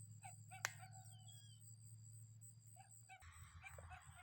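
Faint, distant animal calls, a few short notes spaced apart, with a brief bird chirp and a single sharp click about two-thirds of a second in, over a low steady hum.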